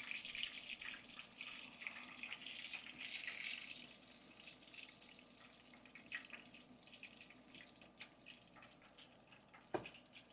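Faint water running and splashing at a sink. It is busier in the first few seconds, then dies down, with a couple of light knocks near the end.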